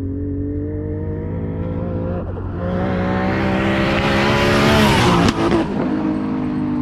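Nissan S15 drift car's engine revving under load as it slides toward the cone, with tyre noise building to a peak about five seconds in, a brief sharp crack, then the engine holding a steady note.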